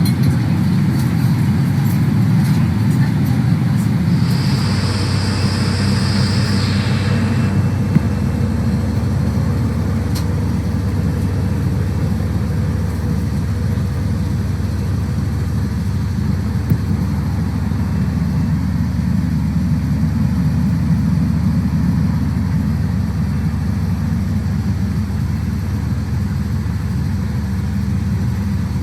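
Steady low rumble of a Boeing 777-300ER, heard from inside the cabin, with a brief hiss laid over it about five seconds in.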